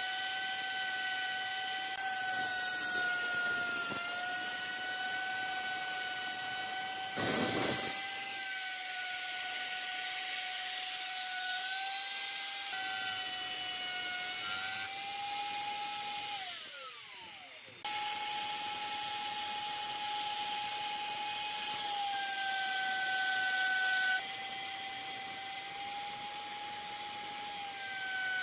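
A high-speed electric power tool runs with a steady high whine over a hiss, cutting wood. About two-thirds of the way through its pitch falls away as it winds down, then it comes back at full speed.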